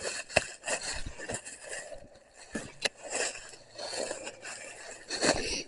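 Footsteps walking downhill over rough ground: an uneven run of crunching, scraping steps with sharp clicks among them.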